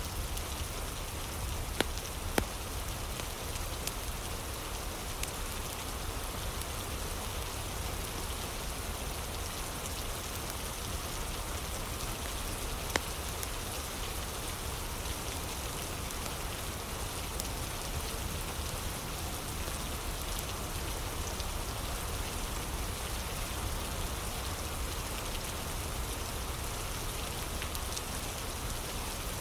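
Steady rain with the occasional sharp crackle of a wood fire: two pops close together about two seconds in, and another around the middle.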